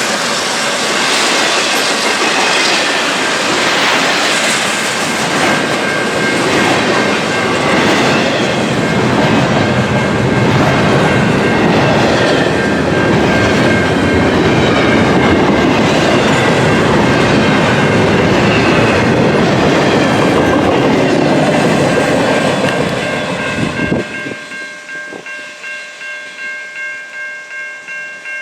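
Freight train cars rolling past with a steady rumble and clickety-clack of wheels over rail joints. About 24 seconds in, the rumble drops away suddenly, leaving a grade-crossing bell ringing in a steady pulse about one and a half times a second.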